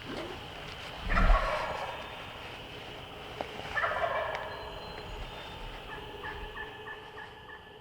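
Wild turkey gobbler gobbling twice, about a second in and again near four seconds, followed by a faint run of short, evenly spaced notes.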